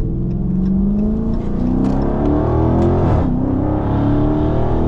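Dodge Scat Pack's HEMI V8 with its mid muffler deleted, accelerating hard. The pitch climbs, drops sharply at an upshift about three seconds in, then climbs again.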